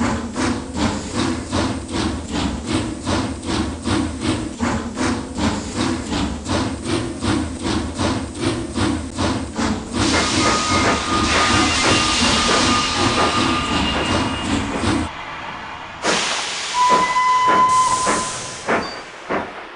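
Sound-equipped model steam locomotive chuffing evenly at about three chuffs a second over a low running hum. About ten seconds in a loud steam hiss starts with whistle tones; the chuffing and hum stop near fifteen seconds, followed by another hiss and a short whistle blast.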